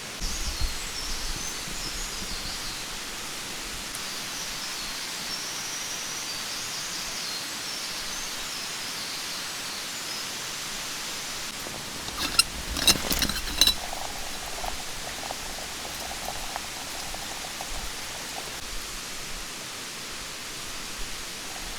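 Mountain stream running steadily, a constant rushing hiss. About twelve seconds in, a brief cluster of sharp clicks and knocks stands out.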